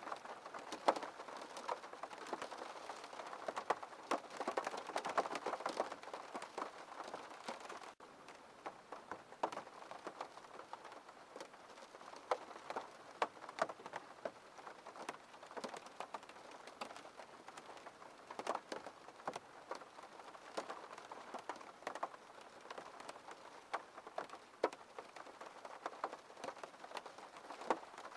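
Rain on a window pane: a steady patter with many irregular sharp drop ticks. It is a little heavier for the first several seconds, then eases slightly.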